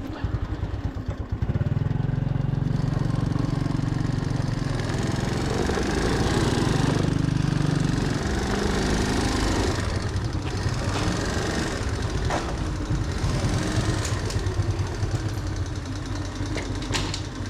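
Small motorbike engine running at low speed, picking up about a second and a half in, with the revs rising and falling as the bike is manoeuvred.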